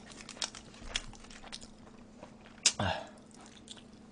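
Close-miked chewing and eating of deep-dish pizza: scattered small wet clicks and smacks of the mouth, with one louder smack about two and a half seconds in.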